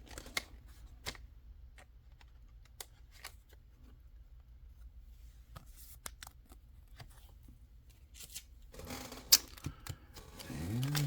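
Trading cards being handled and slid into a plastic card sleeve: scattered light clicks and rustles, with a busier stretch of rustling and one sharp click about nine seconds in.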